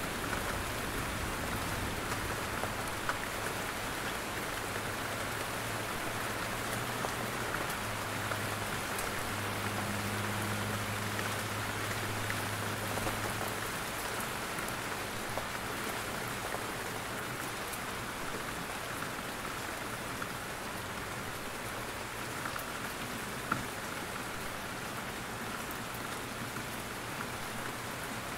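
Steady rain falling in a forest, with scattered louder drops falling from the trees.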